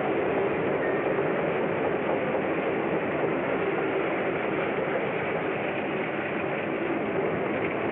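Train running steadily, its continuous noise unbroken on an early sound-film track.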